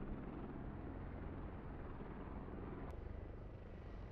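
Z-20T helicopter in flight: the rotors and engines give a steady, low drone, with a brief click about three seconds in.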